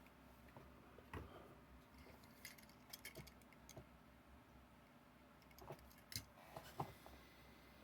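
Near silence with faint, scattered clicks and light taps from a small diecast model truck being handled.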